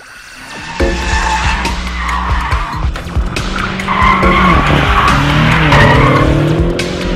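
A car engine, taken to be the BMW F10 M5's twin-turbo V8, starts suddenly under hard throttle a little under a second in, its pitch wavering. The tyres squeal over it, loudest in the middle of the stretch, as in a drift or burnout.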